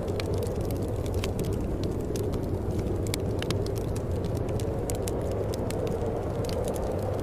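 Wood fire in a fireplace crackling, with frequent sharp irregular pops over a steady low rush of burning flames.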